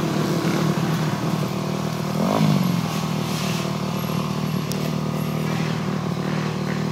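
Dirt bike engine running steadily, with one quick rev that rises and falls about two seconds in.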